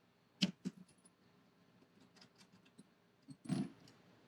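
Small metal hardware on a motorcycle saddlebag being handled as the bag's fasteners are undone: two sharp clicks about half a second in, a few faint ticks, then a dull clunk near the end.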